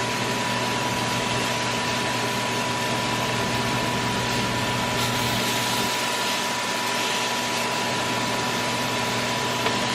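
Stove exhaust fan running steadily: an even rushing hiss with a low hum and a thin, high, steady whine.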